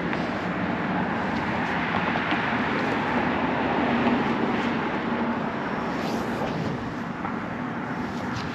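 Road traffic noise: a steady rush of passing vehicles that swells a little about four seconds in, then eases off.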